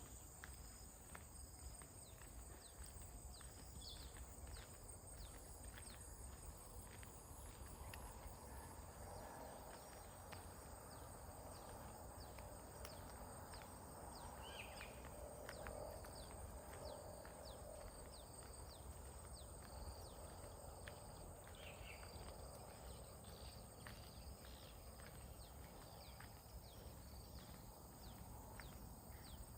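Faint outdoor ambience: a steady high-pitched insect drone, with many short, quick downward chirps of birds scattered throughout over a low wind rumble.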